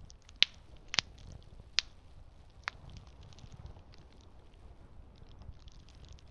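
Campfire crackling: four sharp pops in the first three seconds, over fainter scattered crackles and a low steady rumble.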